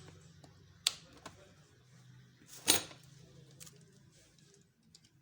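Tools and parts being handled during a repair: a few sharp clicks and knocks, with the loudest a short clatter about two and a half seconds in, over a faint low hum.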